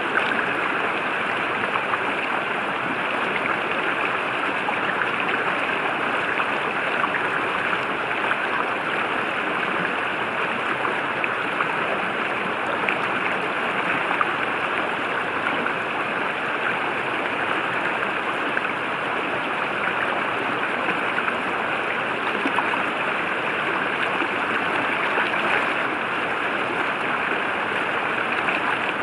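A river flowing, its running water making a steady, even rush.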